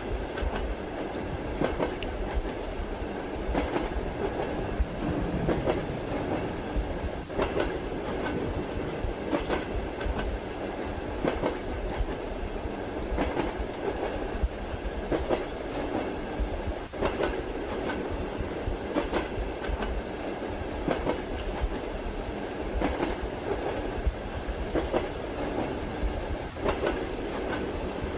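Steady rumble of a moving train heard from inside a carriage, with the wheels clacking over rail joints again and again, mixed with the hiss of rain.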